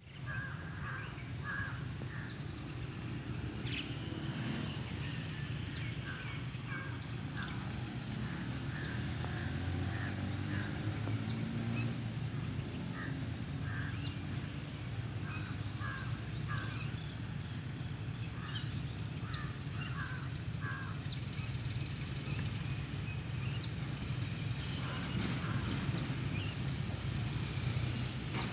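Birds calling in short, repeated notes over a steady low rumble, with scattered sharp ticks.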